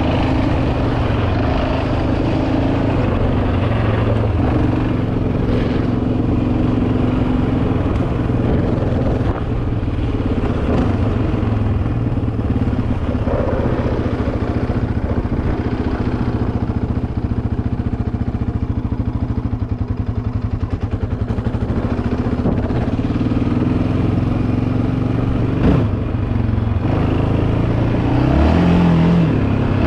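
Yamaha Raptor 700R quad's single-cylinder four-stroke engine running steadily under way, with a brief rise in revs near the end.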